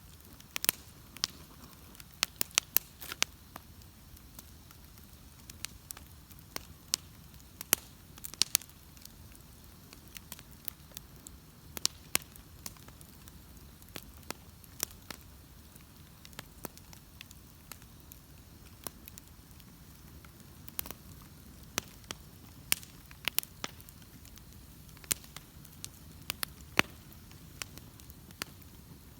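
Wood bonfire crackling, with sharp irregular pops over a low, steady rumble of the burning fire.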